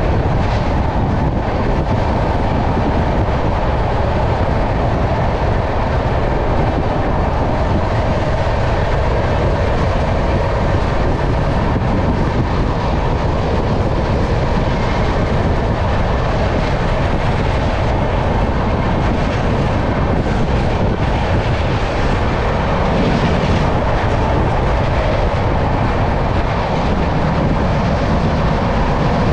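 Ahmedabad–Barauni Express passenger train running, heard from aboard: a steady, loud rumble and rattle of the carriage on the rails with no change in pace.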